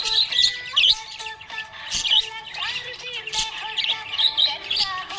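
Budgerigars chirping and warbling: a rapid, continuous run of short high chirps with overlapping lower whistled notes.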